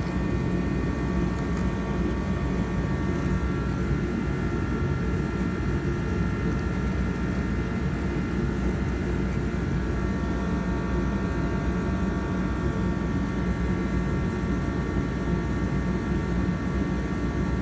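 Walker MT20 gas mower running steadily, its engine note carrying a steady high whine from the blade-engagement PTO gearbox.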